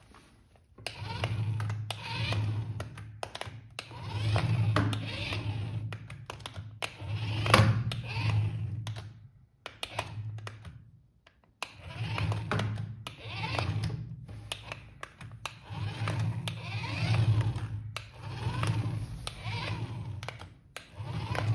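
Small geared electric motors of a remote-control toy vehicle whirring in repeated bursts of one to two seconds, stopping and starting with short pauses between.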